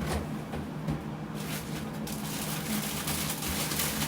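Kitchen handling noise: rustling and small clicks and knocks as ingredients are handled, getting busier about a second and a half in, over a low steady hum.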